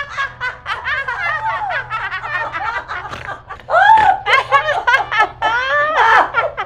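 Loud, sustained laughter in rapid, pitched bursts, growing louder about halfway through.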